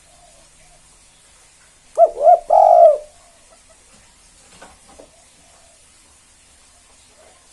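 Spotted dove (tekukur) cooing once about two seconds in: two short rising-and-falling notes followed by a longer one.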